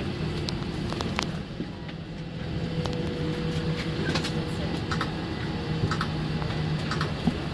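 Steady low hum of a parked Airbus A350-900's cabin during boarding, with scattered light clicks and knocks.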